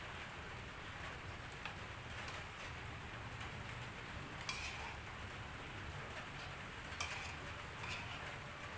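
Steady hiss of light drizzling rain, with a few scattered sharp clicks, the loudest about seven seconds in.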